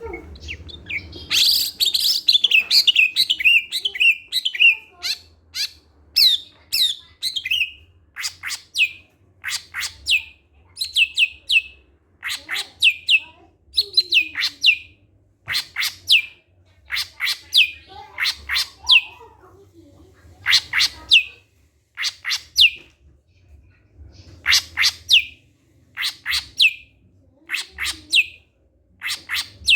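Cucak hijau (green leafbird) calling: a fast warbling phrase at the start, then repeated short, high, downward-sliding whistled notes in groups of two to four every second or two.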